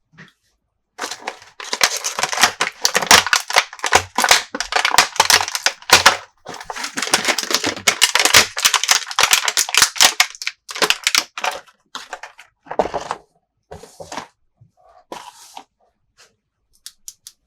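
Toy packaging being crinkled and torn open by hand: a dense run of crackling for about ten seconds, then a few shorter separate bursts.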